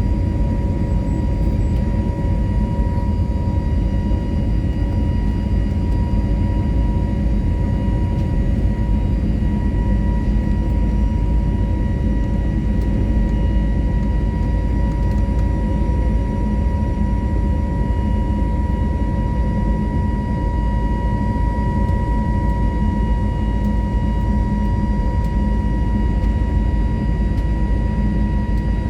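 Airbus A320neo cabin noise with its CFM LEAP-1A engines running steadily: a constant low rumble of engine and airflow with a thin steady whine over it, unchanging in level.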